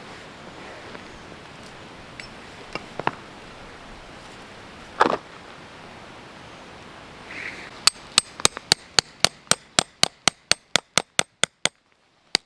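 Hammer striking a steel tent peg: a quick, even run of about seventeen sharp metallic clinks, roughly four a second, starting about two-thirds of the way in and speeding up slightly as they fade, after a few scattered knocks earlier.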